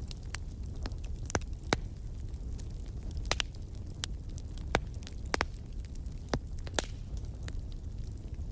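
Fireplace fire crackling, with sharp pops at irregular intervals over a steady low rumble.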